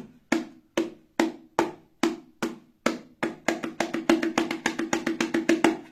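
Bongo drum struck with the 'rock' stroke, the top and then the bottom part of the hand hitting the head in turn. Single strokes come at about two and a half a second, then about three seconds in they speed up to a fast run of roughly seven strokes a second.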